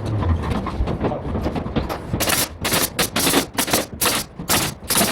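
Pneumatic nail gun firing in quick succession, a run of sharp shots about three a second starting about two seconds in, after a stretch of uneven jobsite clatter.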